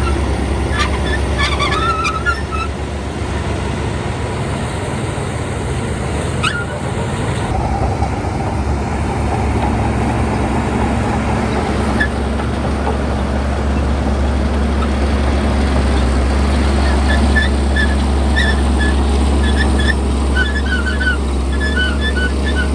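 Shantui bulldozer's diesel engine running steadily under load, with a run of short high chirps near the end.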